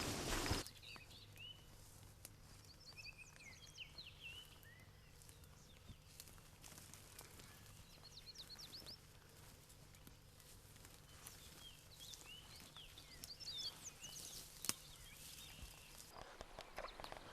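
A songbird singing short chirping phrases, heard several times, over a faint steady low hum. A loud rushing noise cuts off just after the start, and crunching footsteps begin near the end.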